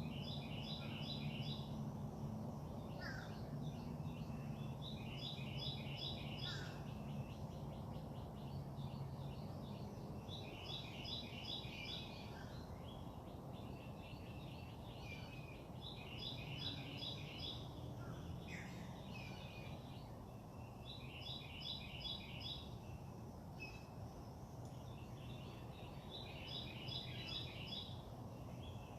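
A songbird singing the same short phrase of five or six quick repeated notes about every five seconds, with a few short rising calls from another bird, over a steady low background hum.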